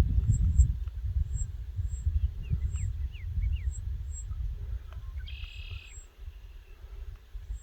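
Birds calling in open country: a few short high chirps, then one brief harsh call about five seconds in. Underneath is a low rumble on the microphone that fades toward the end.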